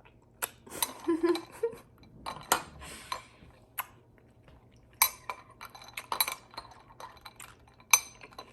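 A spoon clinking and scraping in a bowl of fruit, coconut water and ice, in irregular sharp clinks.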